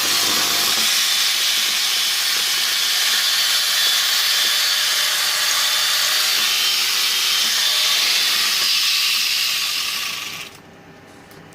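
Angle grinder switched on and running with a loud, steady hissing rush, winding down about ten seconds in; the owner believes the grinder is broken or burnt out.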